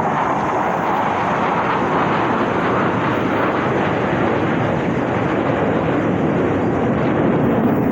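Aircraft engines of planes flying past overhead: a loud, steady rush whose pitch slowly falls as they go by.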